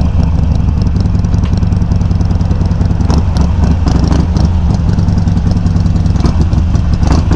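Harley-Davidson Sportster 883's air-cooled V-twin running steadily through Customer slip-on exhaust tips with the low baffle, close-miked on the bike. A faint squeak rides over it, which the rider puts down to a lack of WD-40 lubrication.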